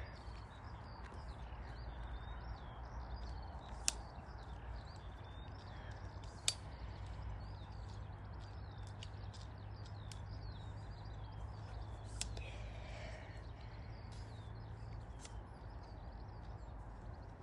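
Small birds singing a continuous twittering song over a steady low rumble, with two sharp clicks, at about four and six and a half seconds in.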